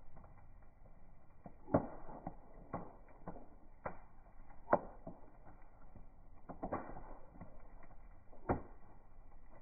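Bonfire crackling: irregular sharp snaps and pops over a low hiss, with a few much louder cracks scattered among them.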